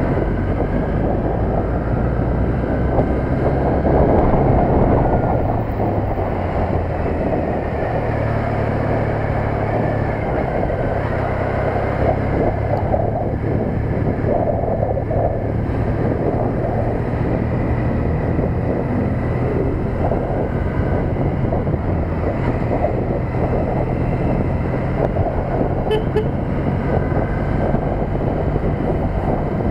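Triumph Bonneville T100's parallel-twin engine running under way, with wind and road noise on an action camera mounted on the bike. The engine is a little louder about four seconds in.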